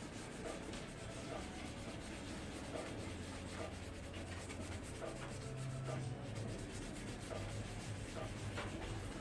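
Toothbrush scrubbing toothpaste back and forth on a plastic car headlight lens, a steady rubbing that polishes off the yellowed oxidation.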